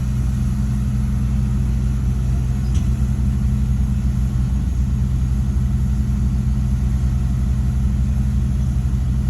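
Bulldozer's diesel engine running steadily at a constant low speed, a deep even drone with no revving.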